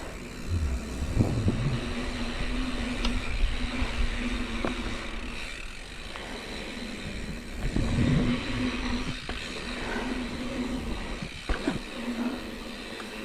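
Mountain bike riding over a dirt trail: tyre and wind noise with rumbling gusts on the microphone, and a few sharp knocks and rattles from the bike over bumps.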